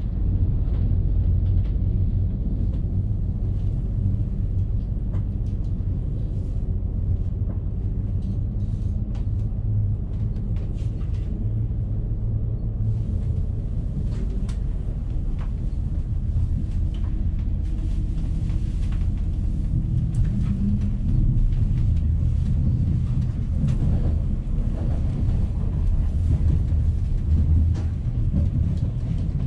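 Deutsche Bahn ICE 1 high-speed train running: a steady low rumble with faint, scattered clicks and rattles.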